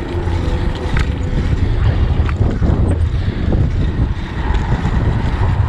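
Wind buffeting the microphone of a rider on a moving bicycle, a steady low rumble.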